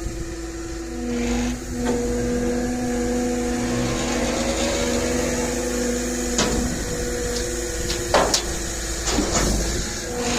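A machine running steadily with a held, humming tone, and a few sharp metallic knocks, about six and a half, eight and nine seconds in.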